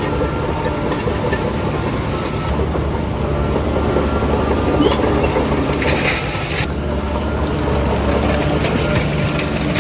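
Heavy diesel engine of a Shantui DH17C3 crawler bulldozer running steadily, with a short hiss about six seconds in.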